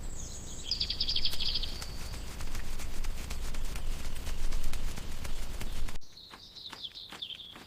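Bird-like chirps and a fast trill over a steady run of clicks and scratching with a low rumble. About six seconds in the sound cuts abruptly to quieter chirping and clicks.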